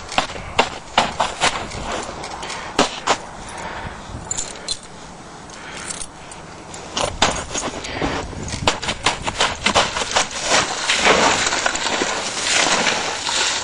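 Footsteps crunching through deep snow and ice, an irregular run of sharp crunches that comes thicker and faster about halfway through.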